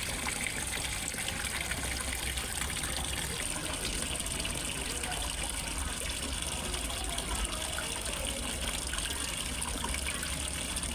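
Steady trickling and splashing of water in a fish pond, falling water running without a break.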